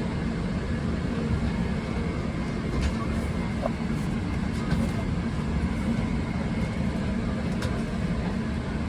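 Steady low cabin hum inside a Boeing 777-300ER airliner: the rushing drone of the aircraft's air and machinery. A few faint clicks come through.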